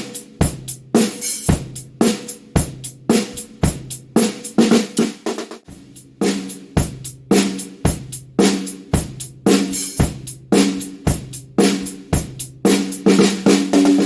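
Drum kit groove played to sound-test a snare drum: steady, sharp snare backbeats with bass drum, hi-hat and cymbal hits, the drums ringing on after each stroke.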